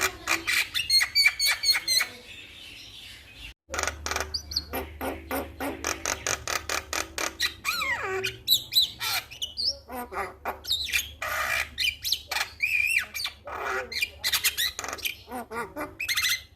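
Male Javan myna singing a long, varied song of rapid clicking rattles, harsh squawks and whistled glides that rise and fall, with a short break about three and a half seconds in.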